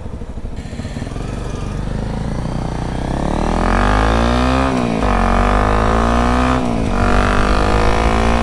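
Single-cylinder dual-sport motorcycle engine accelerating away, its pitch climbing, then dropping briefly twice as it shifts up, about halfway through and again near the end.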